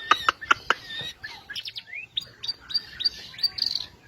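White-rumped shama singing: a fast run of sharp clicking notes in the first second, then rising whistled notes and a quick string of short high notes.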